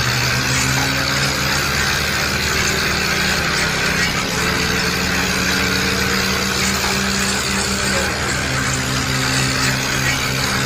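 Tractor engine running steadily, its pitch stepping up and down slightly a few times.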